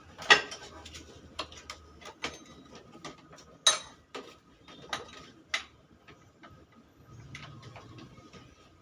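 Irregular metallic clicks and clinks of tools and small metal parts being handled, with the two loudest knocks just after the start and near the middle.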